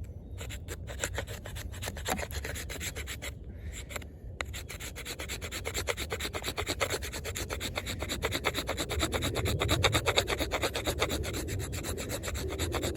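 Knife blade scraping a stick of hard, resinous fatwood to raise fine shavings for tinder: a fast, steady back-and-forth rasping, with a short pause about four seconds in.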